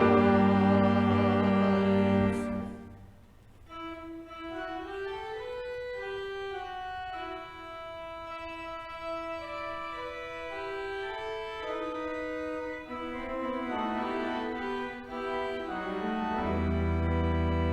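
Church organ playing slow instrumental music in long held notes. A full chord with deep bass fades out about three seconds in, a softer, quieter passage follows, and the deep bass comes back near the end.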